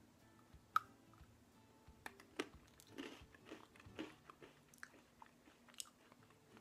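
A person biting off and chewing a crisp, thin bread stick. Irregular sharp crunches come through the chewing, the loudest about a second in.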